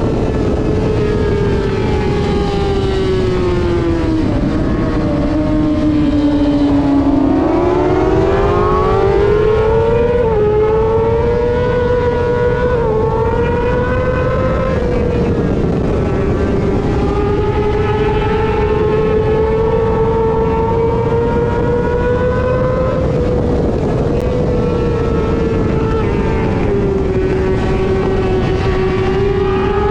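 Superbike engine at racing revs under a heavy rush of wind noise. The revs drop steadily a few seconds in, then climb again with quick little dips at gear changes, and hold high for the rest of the stretch.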